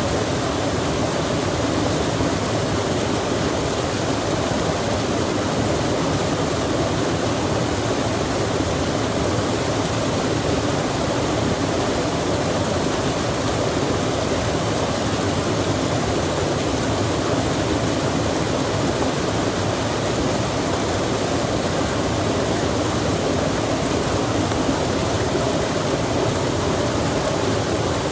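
Steady, unchanging rush of running water, like a stream or waterfall, with no other events.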